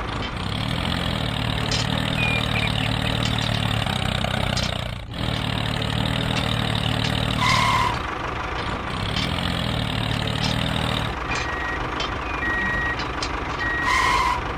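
Heavy-vehicle diesel engine running steadily, with a break about a third of the way in, then stopping near the end. Short high beeps sound twice in the middle and again toward the end.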